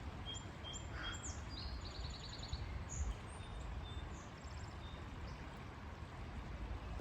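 Small birds calling: a few short high whistles, then quick trills in the first half, over a steady low rumble.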